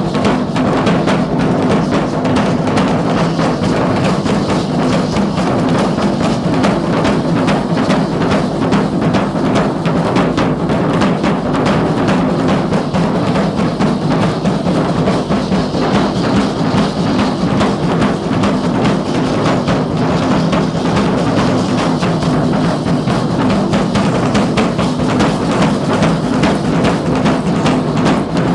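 Drums of a Guadalupana danza troupe beating a fast, steady, unbroken rhythm.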